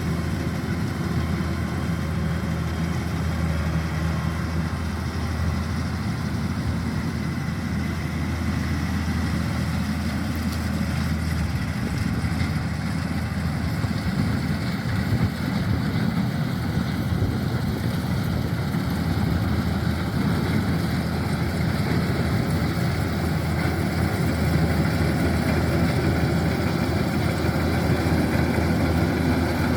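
Kubota DC-105X combine harvester running steadily while harvesting rice: the diesel engine's hum mixed with the noise of the cutting and threshing machinery. The low hum changes pitch character about twelve seconds in, and the sound grows a little louder toward the end.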